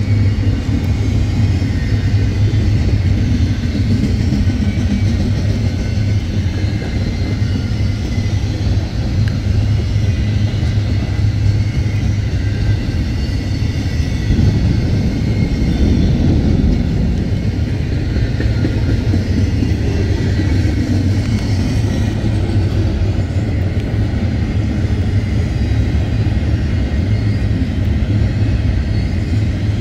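Intermodal freight train rolling past, a loud, steady rumble of wheels on the rails.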